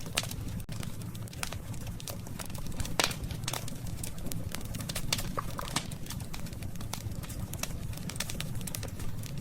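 Wood campfire crackling, with frequent sharp pops and snaps over a steady low rumble of the burning fire.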